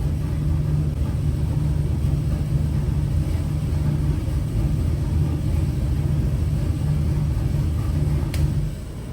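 Fuel-injected LS 441 cubic inch V8 running steadily on an engine dyno. A sharp click comes near the end, and the engine sound then drops off suddenly.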